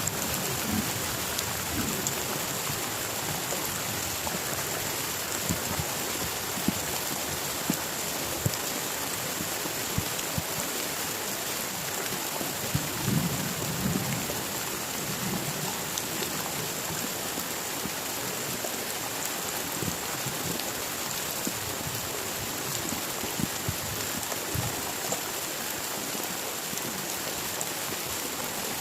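Heavy rain falling steadily, with scattered sharp drop ticks and a low roll of thunder about halfway through.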